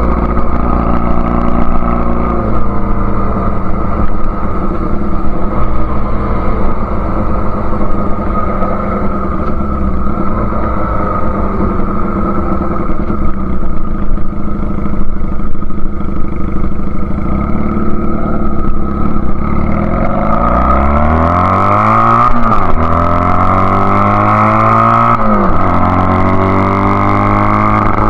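1999 Honda Rebel CA125 engine running through a BSM/Highway Hawk exhaust, on a carb rejetted with a 102 main jet. It runs steadily for about twenty seconds, then pulls up in revs twice, each rise ending in a sharp drop as at a gear change, before settling into a steady run again near the end.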